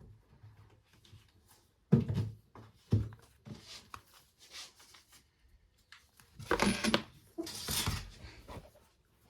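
A Nokia Asha 302 mobile phone and its parts being handled: a few sharp plastic taps and clicks, then two short scraping, rustling bursts a little past the middle.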